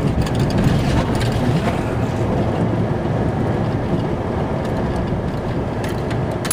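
Snow plow truck running steadily, a dense low rumble of engine and road noise heard from inside the cab.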